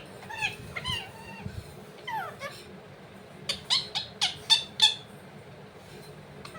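Pet parrot calling: a few short gliding chirps in the first couple of seconds, then a quick run of about six sharp, loud squawks about three and a half seconds in.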